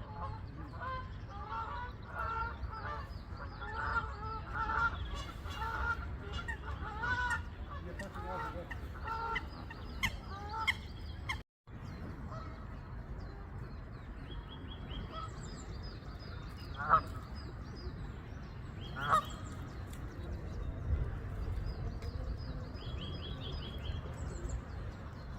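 Birds calling: a flock gives many short, repeated calls for the first half. After a brief cut to silence come two louder single calls and a high twittering of small birds, over a low rumble like wind on the microphone.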